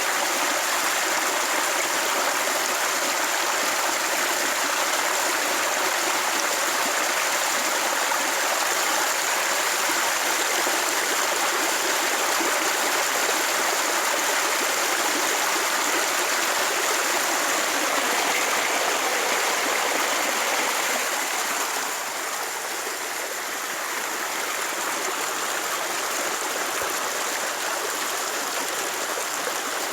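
Steady rushing noise like flowing water, dropping slightly in level about two-thirds of the way through.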